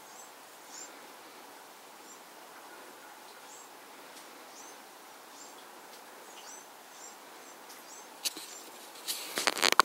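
Small birds chirping outdoors, short high chirps every second or so over a steady faint hiss. Near the end, a sharp knock and then a brief clatter of knocks and rattles.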